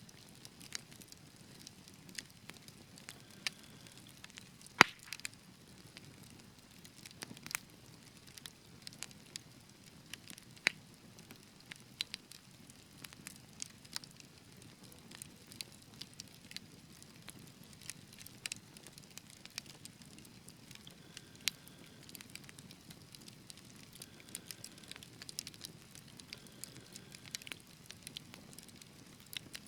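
Wood fire burning in a fireplace: a soft steady hiss with irregular crackles and sharp pops, the loudest pop about five seconds in.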